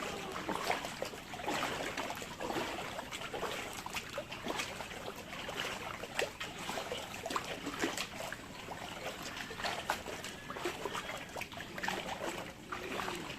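Floodwater splashing and trickling: a steady wash of water noise with many small irregular splashes and drips.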